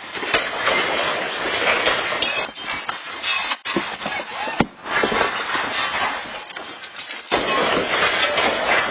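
Loud rattling and clattering of a building's contents shaken by a strong earthquake, with many knocks and crashes of falling objects. The sound cuts off abruptly and restarts about seven seconds in.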